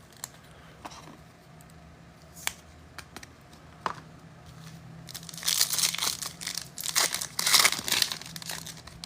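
A few light handling clicks, then from about five seconds in a run of crinkling and tearing as a foil trading-card pack wrapper is ripped open.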